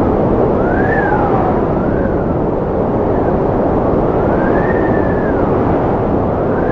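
Strong wind blowing: a steady, loud rush with faint whistling tones that rise and fall in pitch several times.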